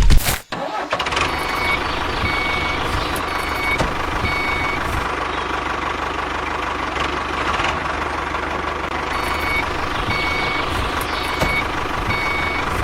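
A vehicle reversing alarm beeping at a regular pace over a steady engine-like running sound. The beeps pause for a few seconds midway, then start again.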